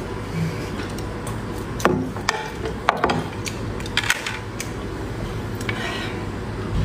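Close-miked chewing of food, with a handful of sharp clicks and crunches, over a steady low hum.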